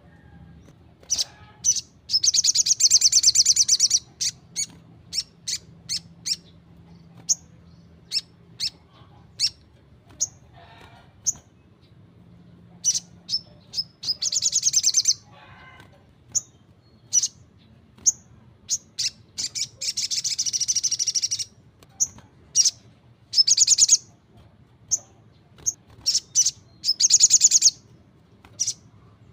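A sogon (sogok ontong) sunbird singing: sharp, high single chirps scattered throughout, broken by several long, rapid, buzzing trills of one to two seconds each.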